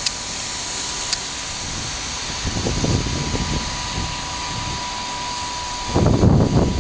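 Boeing 757 jet engines running with a steady rushing noise and a thin, steady whine. Wind buffets the microphone about six seconds in.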